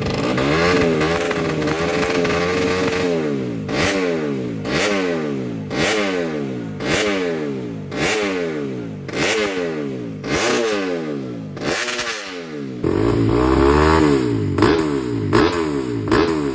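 Motocross bike engine being revved: held at high revs for the first few seconds, then blipped about once a second, each rev snapping up and dying away. About 13 s in the sound cuts abruptly to closer, louder revving.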